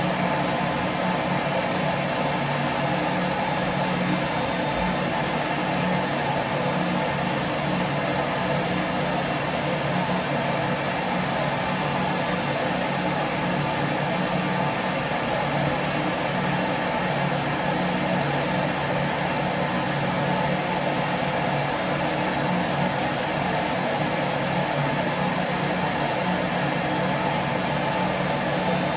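Vacuum cleaner running continuously at a constant speed: a steady low motor hum under an even rushing hiss of air, with no change in pitch or level.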